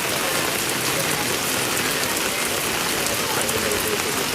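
Heavy rain pouring down steadily, with many small drop impacts.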